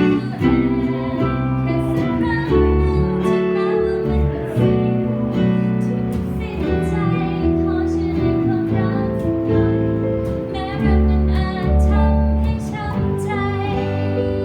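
Band music: acoustic guitar and other instruments playing a song, with a singing voice.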